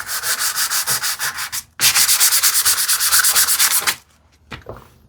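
Sandpaper rubbed by hand on wood in rapid back-and-forth strokes, about six or seven a second, in two runs with a short break between, stopping about four seconds in. It is hand sanding to remove glue lines from a glued wooden joint.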